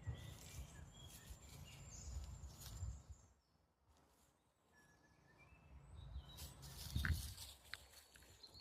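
Faint birdsong: thin high whistled calls, over a low rumble that fades out for a moment midway, with a few soft clicks.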